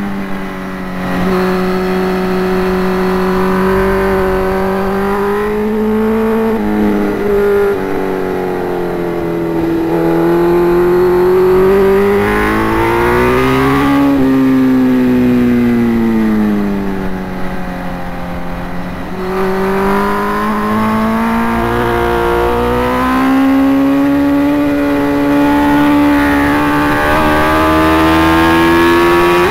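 Sport motorcycle engine at track speed, heard onboard. Its note rises and falls with the throttle through corners and straights, with brief breaks and jumps in pitch at gear changes, and a long climb in revs near the end.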